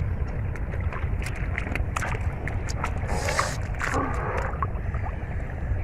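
Water sloshing and splashing in shallow flooded paddy-field water as someone wades and gropes for fish by hand, with a short louder splash a little after three seconds in. A steady low rumble and scattered small clicks run underneath.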